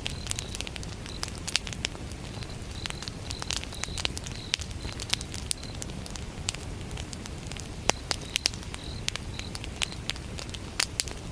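Wood fire burning, crackling with irregular sharp pops over a low steady rumble, while crickets chirp in short, evenly repeated high pulses.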